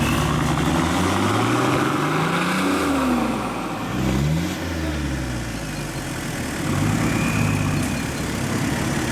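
An off-road 4x4's engine revving up and dropping back a few times, then running steadier near the end.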